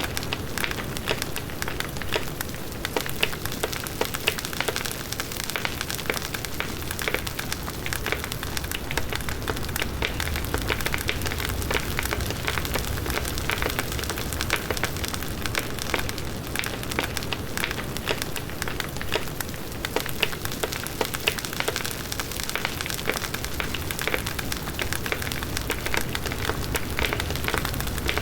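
Wood bonfire burning: dense crackling and popping of burning wood over the low rush of the flames in the wind.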